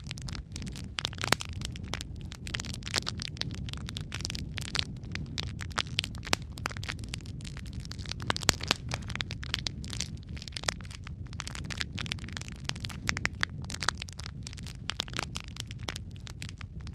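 Logs burning in a fireplace: a steady low rumble of flames with dense, irregular crackling and snapping pops.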